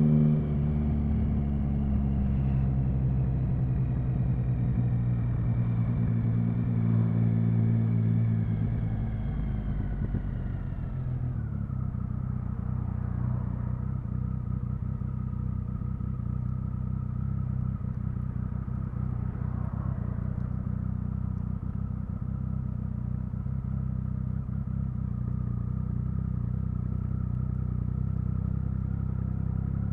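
Triumph Speed Triple 1050's inline three-cylinder engine with its revs falling steadily for about ten seconds, then settling to a steady, even idle for the rest of the time.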